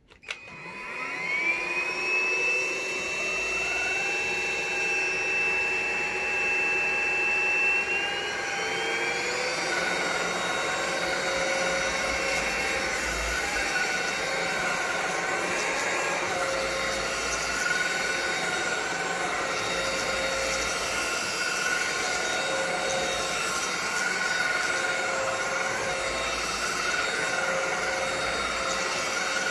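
ANKO cordless stick vacuum cleaner switched on, its motor spinning up to a steady high whine, then stepping up in pitch about eight seconds in as it goes into turbo mode, and running on steadily.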